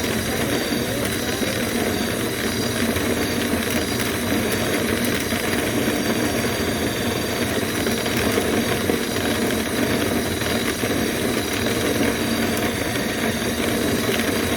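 A motor running steadily, with a hiss of rushing air and no breaks.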